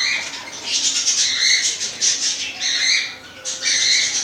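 Budgerigars calling in a run of repeated harsh, chirping bursts, about five or six in the space of four seconds.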